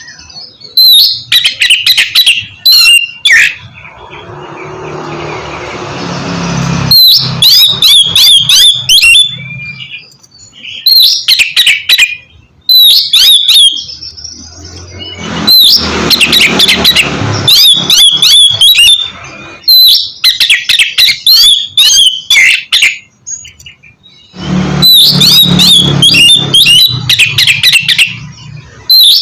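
Oriental magpie-robin (kacer) singing in fast bursts of sharp, varied chirps and whistles, broken by short pauses. A rushing noise swells up under the song a few times.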